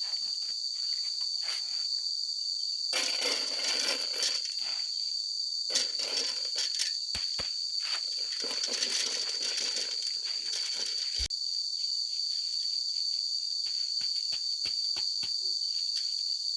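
A steady, high-pitched insect chorus drones throughout. Over it, dry rice is scooped and poured from a container in grainy, rustling stretches about three seconds in and again from about six to eleven seconds, with a few sharp knocks.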